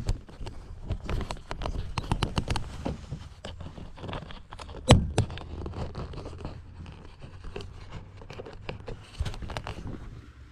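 Kayak paddling: irregular splashes, drips and knocks of the paddle against the plastic hull of a Jackson Bite Angler kayak, with one louder knock about halfway through.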